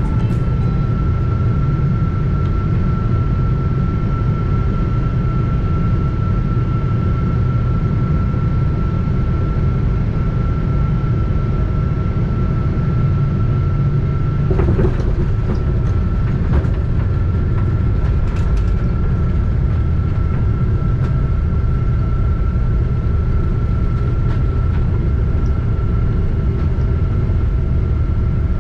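Cabin noise of a Boeing 777-200ER coming in to land: a loud, steady deep rumble of engines and airflow with a thin constant whine, and a few light rattles about halfway through.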